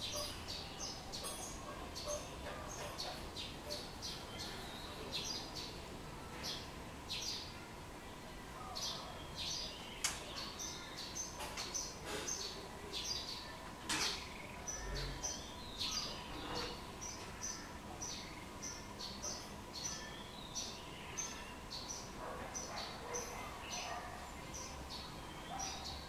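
Small birds chirping: a steady run of short, high chirps, several a second, over a faint steady tone. Two sharp clicks stand out, about ten seconds in and again some four seconds later.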